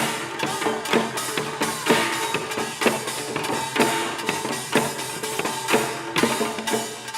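Pungmul percussion ensemble playing: Korean drums and gongs struck in a driving, even rhythm of several beats a second, with a ringing metallic tone held under the strikes.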